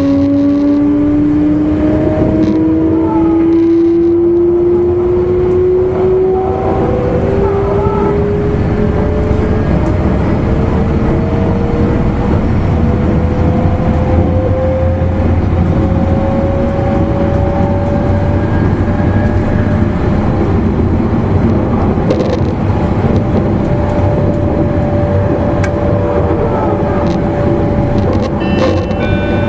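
Traction motors of an E259 series electric train heard from inside a motor car. As the train accelerates, the motor whine rises steadily in pitch for about eighteen seconds, then holds level at cruising speed over the steady rumble of the wheels on the rails.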